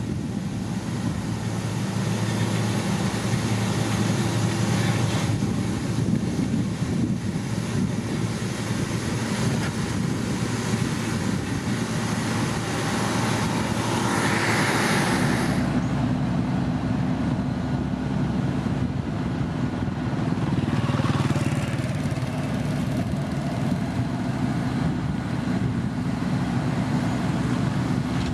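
Diesel engines of heavy road-construction machinery running steadily, with an abrupt change in the engine sound about halfway through.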